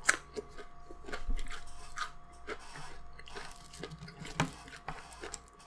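Close-miked eating sounds: chewing and small crunches, with the light crackle of fingers picking through French fries and fried chicken on a paper wrapper.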